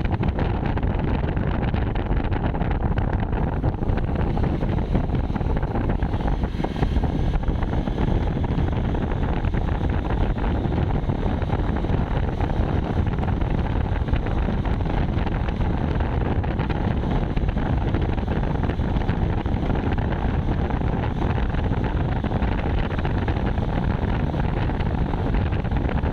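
Steady wind rushing over the microphone of a moving bike, with a constant low rumble from the ride underneath.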